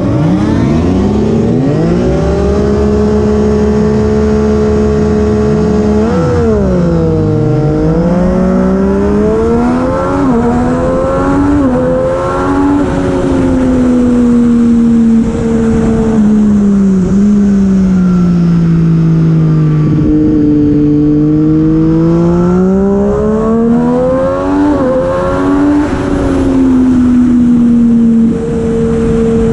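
Superbike engine running hard, its pitch climbing and falling with the throttle: steady at first, a sharp climb about seven seconds in, a long slow drop in the middle and a rise again near the end.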